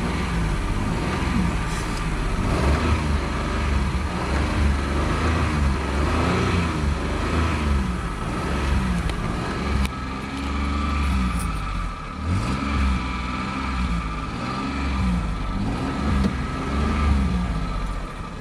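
Car engine being revved over and over, the pitch rising and falling about once a second as the accelerator pedal is pumped.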